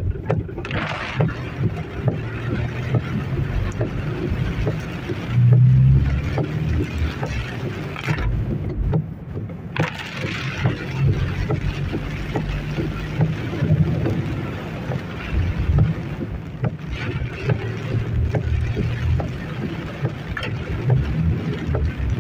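Heavy rain pelting a moving car in a severe thunderstorm, with strong wind buffeting: a constant low rumble under a dense rush of sharp raindrop taps.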